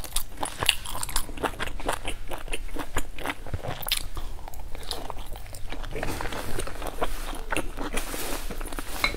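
Close-miked eating sounds: a person biting and chewing a soft boiled dumpling soaked in chili sauce, with many short, wet mouth clicks and smacks, several a second.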